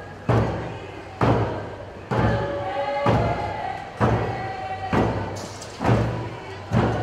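A Tlingit group song: a drum struck in a steady beat of a little over one stroke a second, with a group of voices singing over it.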